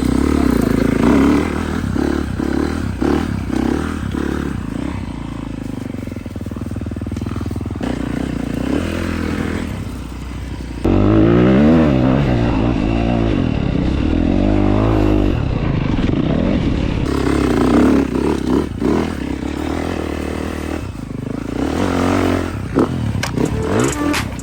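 Four-wheeler (ATV) engine running and revving, its pitch rising and falling, with clattering and scraping. The sound changes abruptly twice, about eleven and seventeen seconds in.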